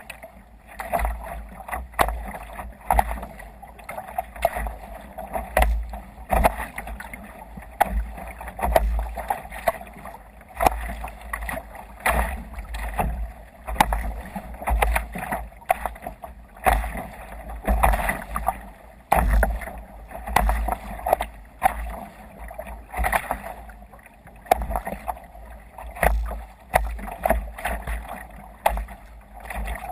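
Water sloshing and slapping against a sea kayak's hull as it moves through waves, in irregular splashes about once a second.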